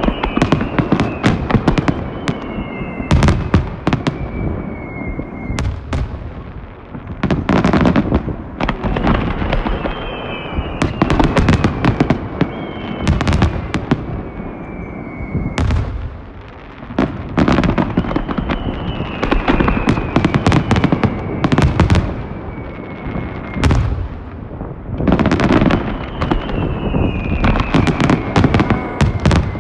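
Finale barrage of aerial firework shells bursting in dense, rapid volleys, with sharp bangs and crackle coming in waves. Several falling whistles sound over the bursts, each a couple of seconds long.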